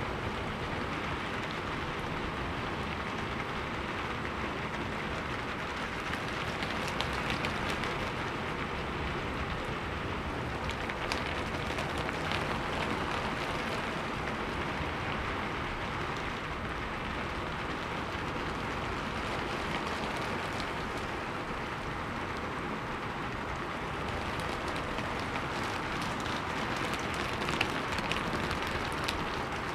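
Steady rain falling, with scattered drops ticking, laid on as a backing track.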